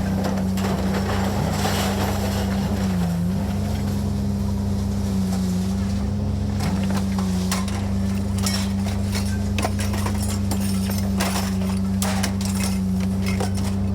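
An engine running steadily, its pitch sagging briefly a couple of times, with scattered knocks and clanks, mostly in the second half.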